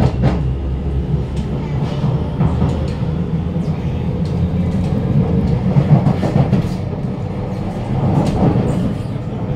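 Kawasaki Nippon Sharyo C751B metro car running under way as it pulls away from a station: a steady low rumble of traction motor and wheels, with scattered clicks from the wheels over the track.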